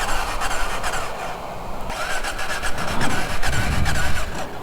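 Motorcycle's electric starter cranking the engine, which turns over but does not catch: the bike has died and will not restart. The cranking starts abruptly just before this moment and cuts off abruptly about four and a half seconds later.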